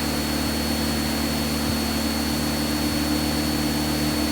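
Light single-engine aircraft's piston engine and propeller droning steadily in the cockpit at circuit power on the downwind leg, with a steady hiss and a thin high whine over it.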